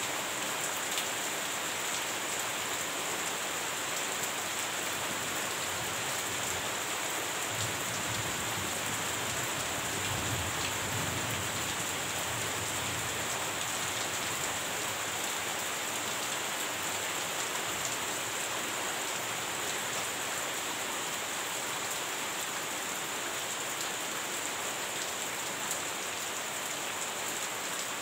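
Heavy rain falling steadily in an even hiss, with a faint low rumble of distant thunder for several seconds about a third of the way in.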